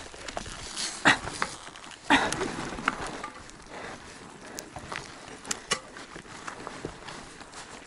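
Irregular knocks, scrapes and clatter, as of rocks or gear being struck on a stony trail, with two louder knocks about one and two seconds in.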